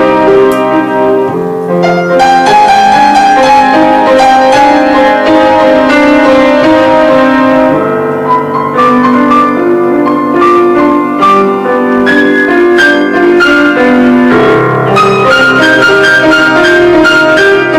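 Piano playing a melody over sustained chords.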